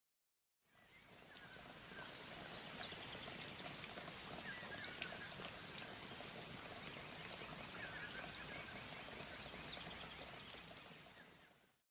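Steady water noise with many small scattered clicks and a few faint chirps; it fades in just after the start and fades out near the end.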